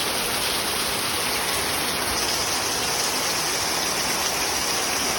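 Heavy downpour: dense, steady rain hissing and pattering on the ground and surfaces.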